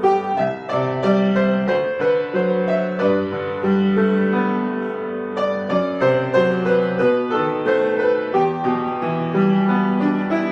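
Solo piano playing a piece with a steady flow of notes, melody over an accompaniment.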